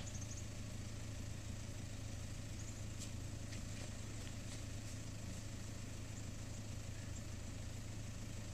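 A 4WD's engine idling steadily while the vehicle sits stopped on a rock crawl, with a few faint clicks around the middle.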